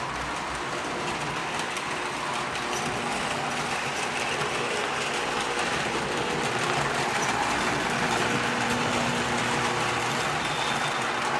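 Model train running steadily along the track pulling the operating cop and robber car: an even motor and wheel rumble that grows slightly louder.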